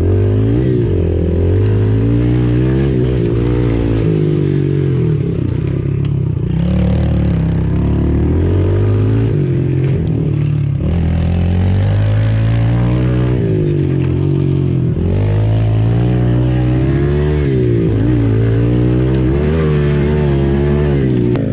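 Pit bike engine, heard close up, revving up and down over and over as it is ridden: the pitch climbs and drops again every second or two as the throttle opens and closes.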